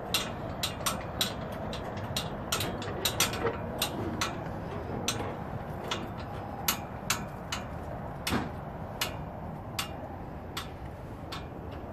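A series of sharp, irregularly spaced clicks or knocks over a steady low background rumble, coming thickly at first and thinning out toward the end.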